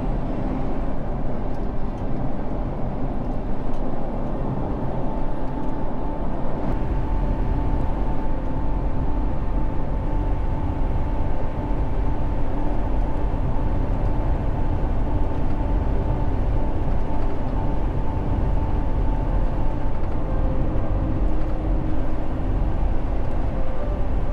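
Semi truck's diesel engine and road noise inside the cab on a steep downgrade: a steady low rumble that grows heavier about six seconds in, with a thin steady whine through the middle stretch.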